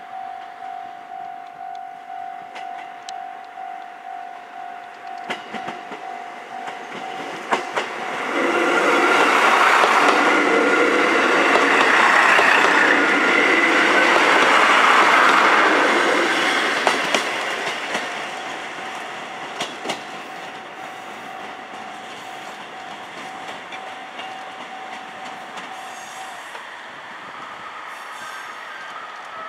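Level-crossing warning bell ringing in a steady ding-ding, about one and a half strikes a second. About eight seconds in, a KiHa 40 diesel railcar crosses: its diesel engine runs and its wheels clatter over the rail joints, loudest for about eight seconds and then fading. The bell rings on after the railcar passes and stops a few seconds before the end.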